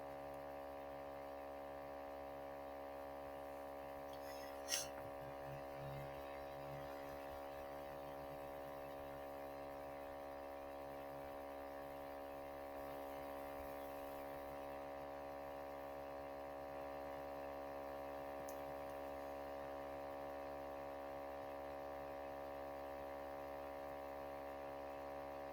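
Steady electrical mains hum, a stack of evenly spaced steady tones, with one faint click about five seconds in.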